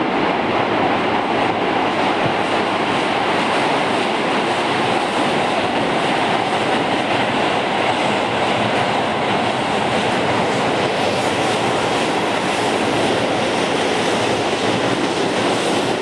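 Keihan 8000 series electric train running past without stopping, a steady rumble of wheels on rail that holds at an even level throughout.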